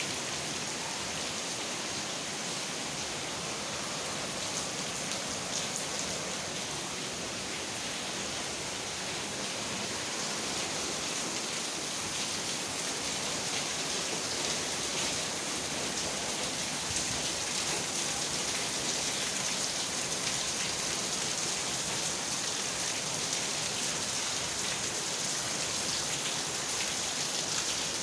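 Steady rain falling, a continuous hiss with scattered drops ticking through it.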